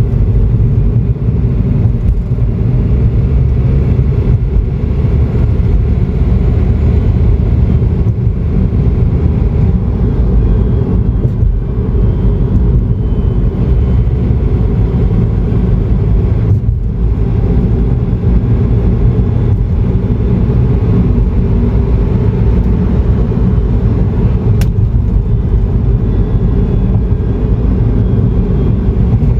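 Toyota Noah AZR65 minivan driving, with a loud, steady road and drivetrain rumble and a faint whine over it. The owner traces the whine to a worn bearing in the rear 4WD coupling.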